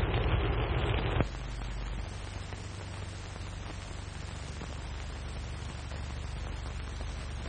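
Steady hiss and low hum of an old optical film soundtrack. A louder rushing noise cuts off abruptly about a second in.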